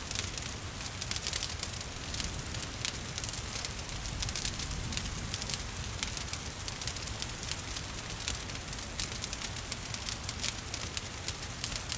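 Wood fire crackling with frequent sharp pops and snaps, over a steady patter of gentle rain and a low rumble.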